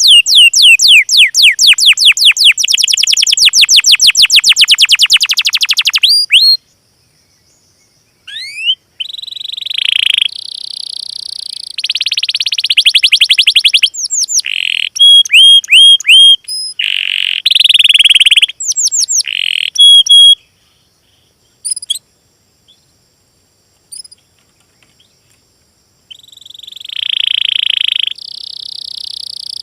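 Small songbird song: a very fast, high-pitched trill for about the first six seconds, then bursts of high chirps, note series and short trills broken by pauses, with a silent stretch of several seconds past the middle.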